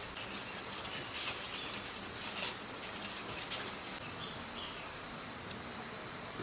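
Steady high-pitched insect chirring, with scattered light clicks.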